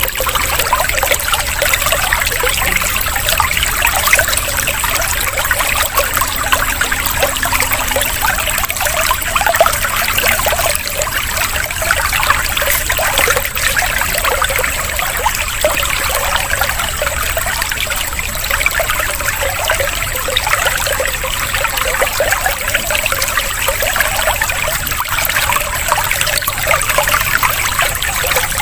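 Water trickling and splashing steadily, like a small stream or fountain, played as a water-sound interlude.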